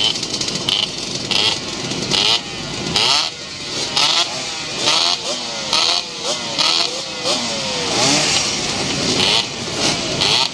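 Two-stroke motorcycle engines revving, their pitch climbing and then dropping again and again as the riders accelerate and shift gears.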